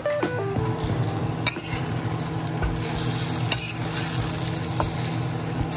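Chopped green garlic mixture sizzling in a wok as a spatula stirs and scrapes through it, with a few sharp clicks of the spatula against the pan.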